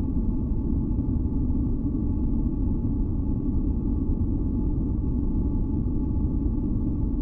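Steady synthetic noise for sleep and masking, deep and weighted to the low end like brown noise, with two faint steady tones humming above it. It does not change.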